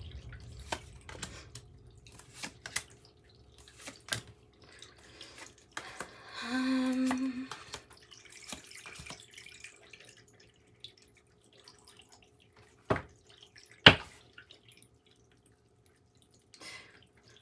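Tarot cards being handled: scattered light taps and clicks as cards are shuffled and laid down, with a couple of sharper taps near the end and a short hum about halfway through.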